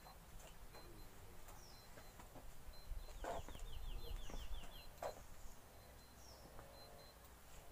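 Faint bird chirps, with a quick trill of short falling notes about three seconds in. A low rumble and a couple of soft knocks come around the middle.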